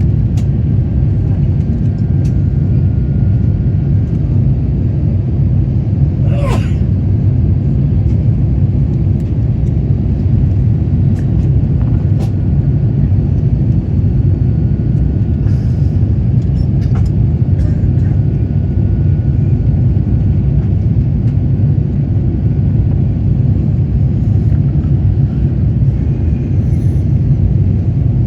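Steady, loud low rumble inside the cabin of an Airbus A350-900 in its climb-out, from its Rolls-Royce Trent XWB engines and the air rushing past the fuselage.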